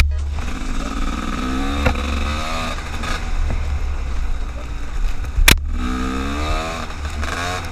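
An engine revving up twice, each time rising in pitch, with a couple of sharp clicks.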